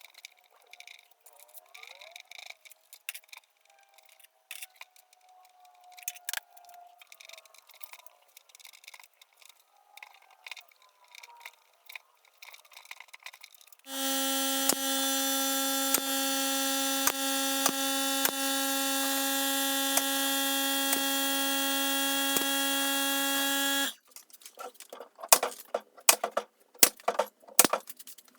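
Scattered workshop clicks and knocks. About halfway through, a power tool switches on and runs with a loud, steady hum for about ten seconds, then cuts off abruptly, and the clicking and knocking resumes.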